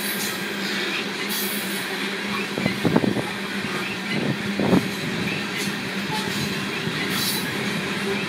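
Loaded coal train cars rolling past, with a steady rumble of wheels on rail and a low hum, and short clusters of louder wheel clanks about three seconds and four and a half seconds in.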